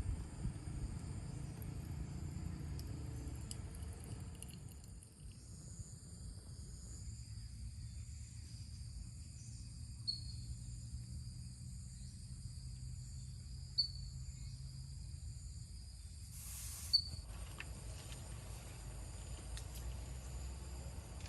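Insects trilling steadily outdoors at several high pitches at once, with three brief high chirps over the top. A low rumble in the first few seconds dies away.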